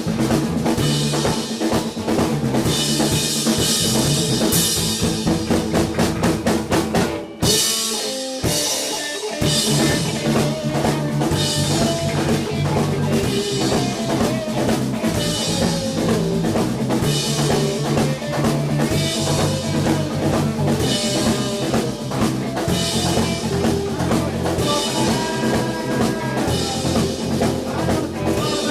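A live band playing, with a full drum kit and bass to the fore and a steady beat. About seven seconds in the music breaks off briefly: the bass and kick drop out for about two seconds before the full band comes back in.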